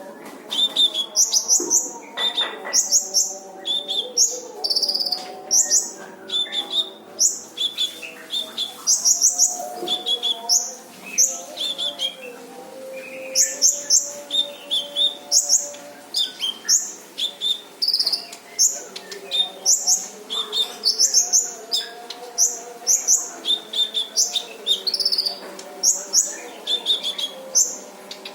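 A Kolibri Ninja sunbird singing nonstop, a dense, fast stream of short, sharp high chirps and twitters with few pauses.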